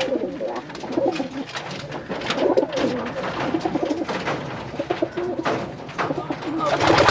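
Racing homer pigeons cooing repeatedly in the loft, with scattered sharp clicks and a loud rustling burst near the end.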